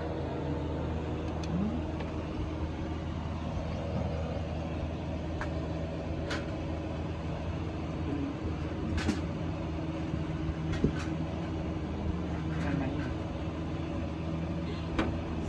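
Toyota Premio's 1ZZ four-cylinder engine idling steadily, with a few faint clicks over it.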